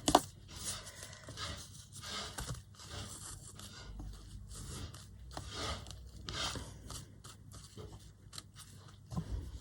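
Soft, irregular rustling and scraping of paper and craft materials being handled, with a sharp click right at the start.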